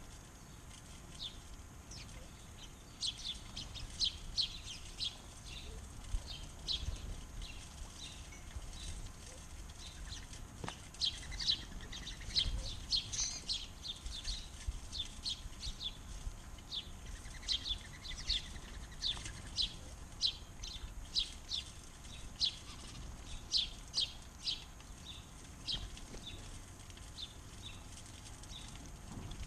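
Backyard birds chirping: a long run of short, sharp, high chirps, sometimes several a second, with brief pauses between runs.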